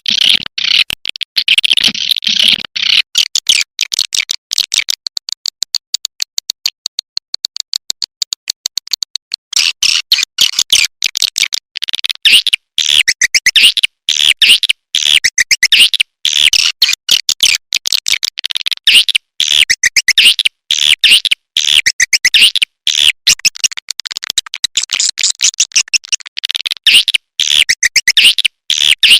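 Recorded swiftlet calls: dense, rapid trains of high chirps and clicks, thinner for a few seconds and then packed tight again from about a third of the way in. This is the kind of lure call played in swiftlet houses to draw the birds in.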